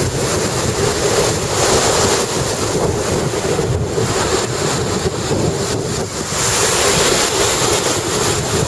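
High surf breaking and washing up a sandy beach, a steady rushing that swells and eases, with wind buffeting the microphone.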